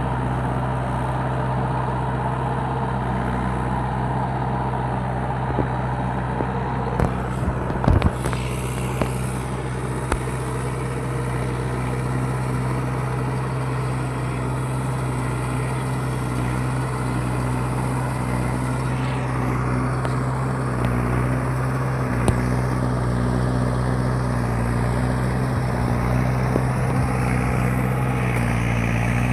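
Mahindra 585 tractor's diesel engine running steadily, with a few sharp knocks about eight seconds in.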